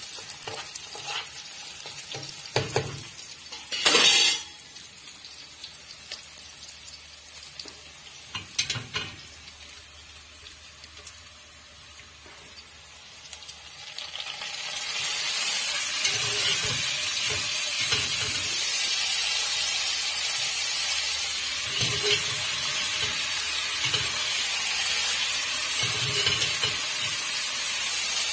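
Sliced onions and whole spices frying in hot oil in a pan, stirred with a metal spoon that gives a few loud clatters against the pan in the first seconds. About halfway through, pieces of goat tripe and intestine are tipped in and the sizzle turns much louder and steadier, with occasional knocks of stirring.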